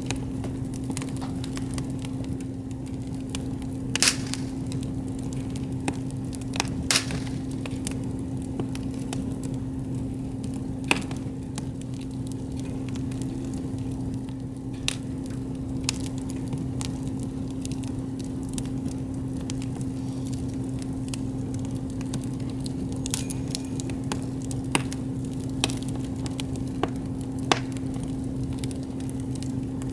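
Wood campfire crackling, with sharp pops every few seconds at irregular intervals and a soft run of small crackles between them, over a steady low hum.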